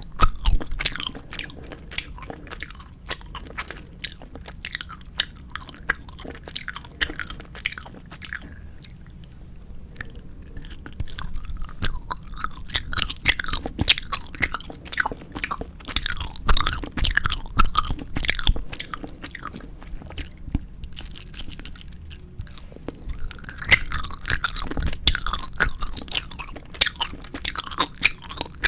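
Close-miked chewing of 4D gummy jelly candy: a dense run of wet, sticky clicks and squelches, easing off briefly about a third of the way in and again a little past two-thirds.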